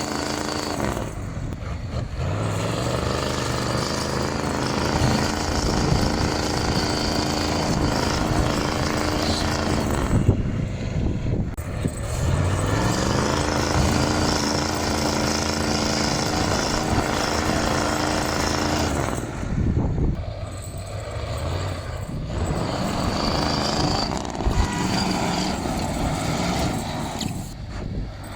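Large diesel truck engine running and revving, its pitch climbing three times.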